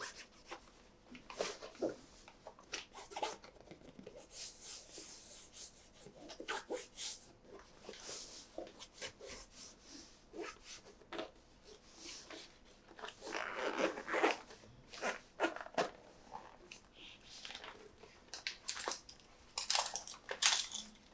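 Hands handling toy packaging: irregular crinkling, tearing and rustling, with many small clicks and scrapes, and a longer rustle about two thirds of the way through.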